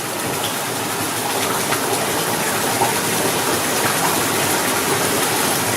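Steady rush of gushing water, even and unbroken.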